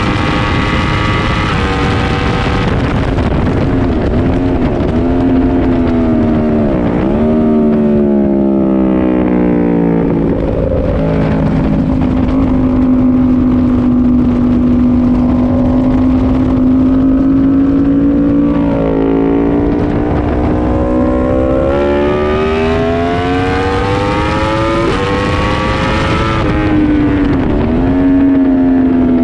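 Yamaha R1 inline-four engine heard from on board at track speed, with wind rushing over the microphone. The engine note steps down through downshifts as the bike brakes hard from high speed into a corner, then holds a steady low note through the corner. It climbs through a series of quick upshifts on the way out, with a brief dip near the end.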